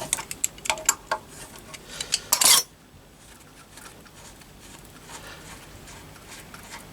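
Metal hand tools and small engine parts clinking, with a louder metallic clatter about two and a half seconds in.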